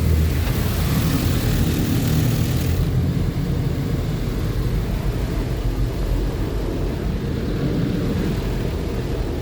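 Car wash tunnel machinery running with a steady, deep roar, typical of the big blower dryers near the tunnel's exit. A high hiss, like spray, cuts off about three seconds in.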